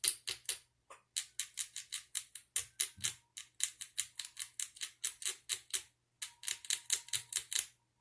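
Rapid, evenly spaced sharp clicking, about five clicks a second, pausing briefly twice, over a faint steady hum.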